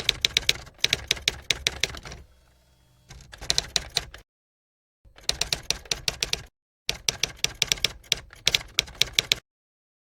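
Typewriter key clicks, a quick even run of about seven strikes a second, in four spells broken by dead silence, stopping about a second before the end.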